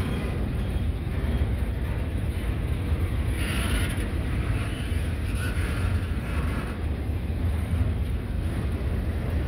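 Double-stack intermodal freight train's well cars rolling past close by: a steady rumble of steel wheels on rail, with wind buffeting the microphone. Brief higher-pitched noise rises over the rumble about three and a half seconds in and again around six seconds.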